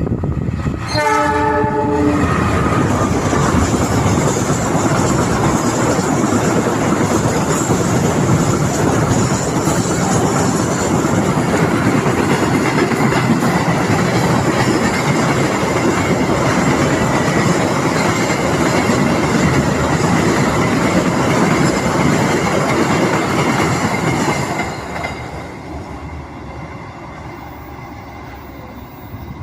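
Freight train passing close by: a short horn blast about a second in, then loud rumbling and wheel clatter for over twenty seconds, fading away near the end.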